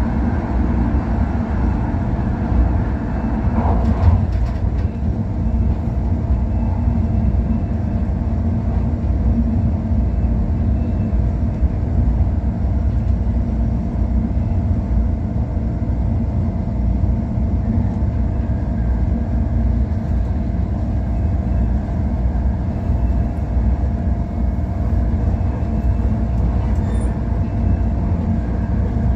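MTR Airport Express electric train running at speed, heard inside the car: a steady rumble of wheels on track with a faint steady tone above it.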